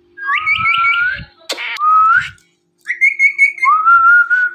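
Indian ringneck parrot whistling a series of clear notes, several sliding upward at the end, with a short harsh squawk about one and a half seconds in and a long held whistle near the end.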